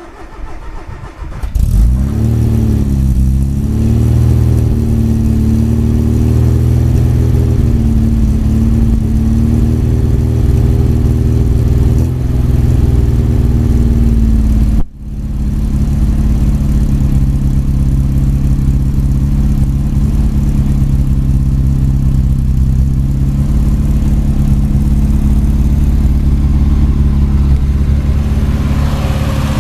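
Cold start of a 1980 Austin Mini's tuned 1300 cc MG engine: brief cranking, it catches about a second and a half in, its revs wander for a couple of seconds, then it settles into a steady idle. The sound drops out for an instant about halfway through and the engine carries on running.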